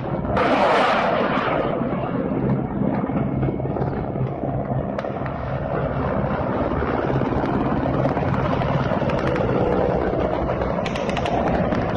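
Military helicopters flying overhead: steady rotor and engine noise with a fast rhythmic beat. A short loud burst of hiss comes about half a second in.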